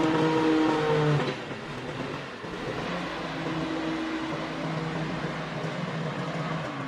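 Bulldozer's diesel engine running with a steady drone; about a second in it drops in loudness and carries on at a lower, even level.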